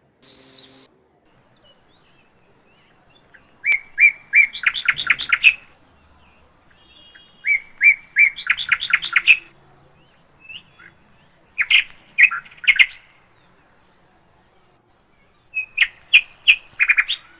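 A songbird singing four short, repeated phrases, about one every four seconds. Each phrase is a few clear notes followed by a quick run of notes.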